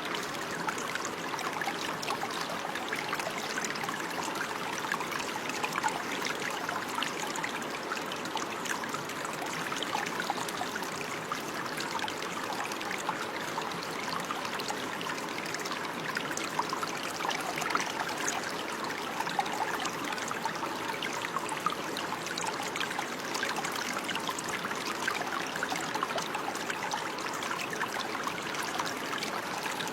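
Running water: a steady stream trickling and splashing, with many small bright splashes over an even rush.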